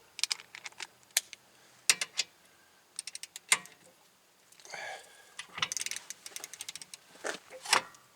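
Hand tools clicking and clinking as a socket and torque wrench are worked on the hub bearing bolts, with two runs of quick ratchet-like clicks and a sharper metal knock near the end.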